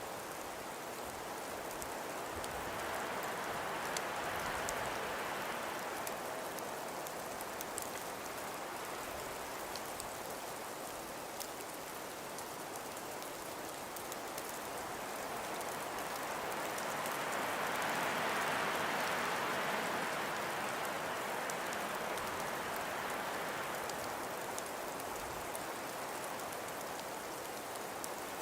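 Snowstorm ambience: a steady hiss of wind-driven snow with fine ticking of flakes and ice grains, the wind swelling in two slow gusts, about four seconds in and again a little past halfway.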